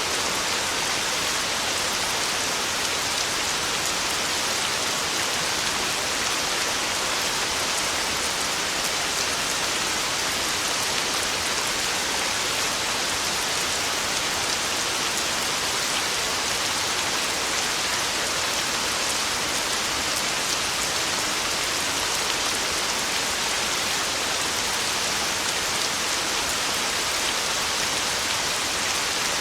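Heavy rain falling steadily: a dense, even hiss with faint ticks of individual drops, holding at the same level throughout.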